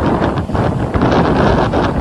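Strong coastal wind buffeting the microphone in a storm: a loud, dense rushing noise, heaviest in the low end, with a brief lull about half a second in.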